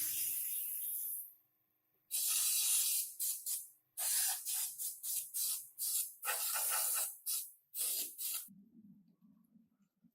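Compressed air hissing from a pneumatic air tool in bursts: two longer blasts, then a quick run of short trigger pulls that stops about eight seconds in.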